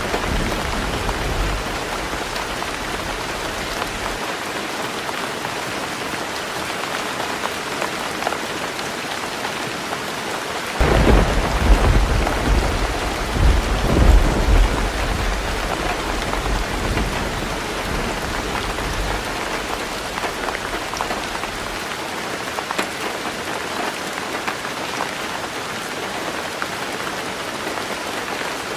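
Heavy rain falling steadily on a roof. A roll of thunder breaks in suddenly about eleven seconds in, rumbling for several seconds with two louder swells before it fades. The tail of an earlier rumble dies away in the first few seconds.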